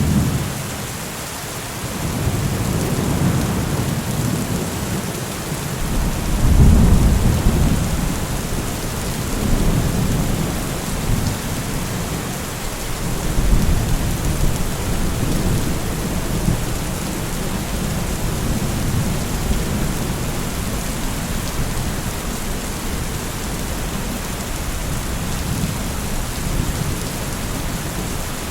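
Steady rain falling in a thunderstorm, with rolling thunder: a low rumble builds about two seconds in, is loudest around seven seconds, rolls again near the middle, then fades back under the rain.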